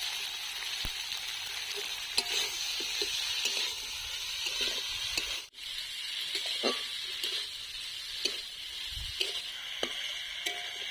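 Amaranth stems and potato pieces sizzling in oil in a wok while they are sautéed with spices. A flat metal spatula stirs them, scraping and tapping against the pan now and then. The sizzle briefly drops out about halfway.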